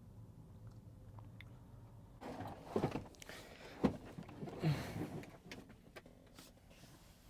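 Handling noise in a small cab: a low steady hum, then about three seconds of clattering and scraping with three louder knocks and short squeaks, as of a door, drawer or compartment being worked.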